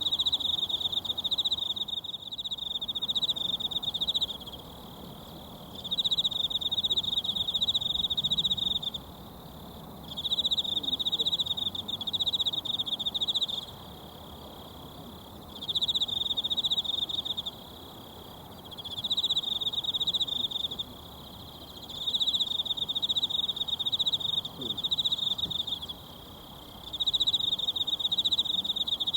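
An insect trilling in repeated bouts of two to four seconds with short pauses between them, a high, fast-pulsing buzz, over the faint rush of a mountain stream.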